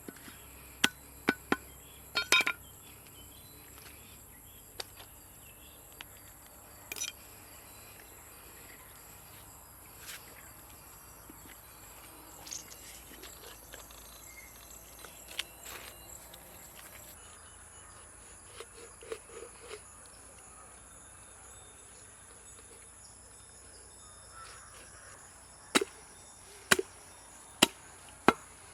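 Sharp knocks of a knife chopping fish on a cutting block, in scattered groups: a few in the first couple of seconds, single faint ones in the middle, and a run of four spaced about a second apart near the end. A faint steady hiss underlies them.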